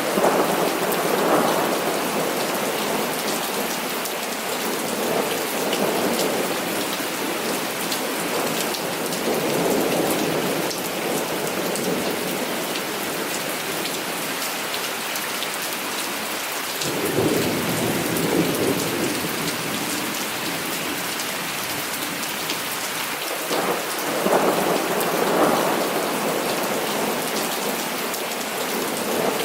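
Heavy rain falling steadily with a dense hiss, while thunder rumbles in several slow swells lasting a few seconds each, loudest near the start and near the end.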